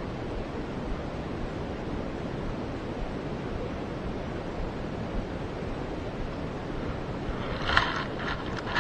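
Steady rushing noise of wind on the microphone and water, with a short burst of sharp clicks and rattles near the end.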